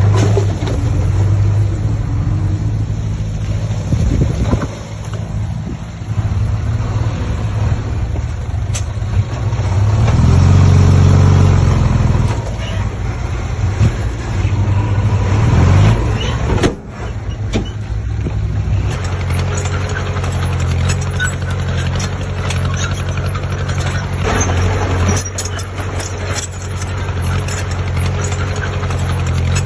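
Heavy diesel engine of a truck or bulldozer running, revving louder for a couple of seconds about ten seconds in, then changing pitch. It breaks off abruptly a little past halfway and then runs steadily again.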